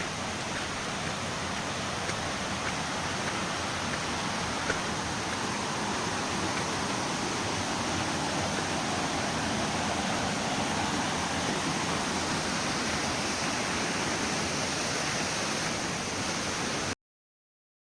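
Steady, even rush of water falling and running, as at a waterfall; it cuts off suddenly near the end.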